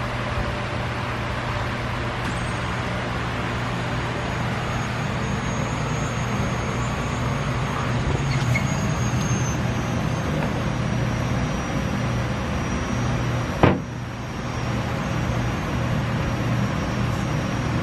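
Electric fuel pumps running steadily, pressurising freshly re-plumbed fuel lines, with a low hum and a thin high whine that comes in about two seconds in. There is a single sharp knock near the end.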